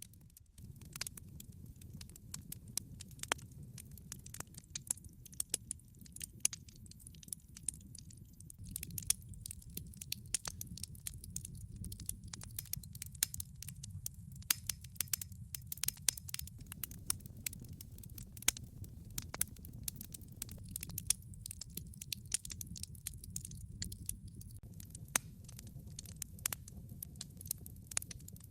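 Wood fire in a log fireplace crackling, with frequent irregular sharp pops and snaps over a steady low rumble of the burning logs.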